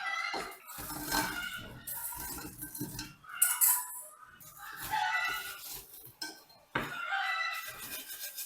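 Dishes and cutlery clinking and knocking, a run of sharp irregular clicks with short ringing tones.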